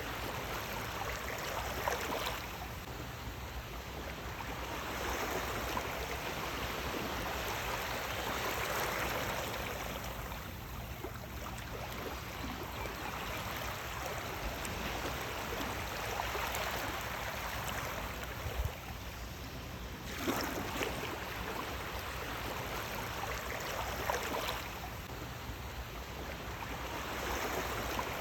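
Sea waves breaking and washing in, the rushing of the water rising and falling every several seconds with short splashes at the peaks.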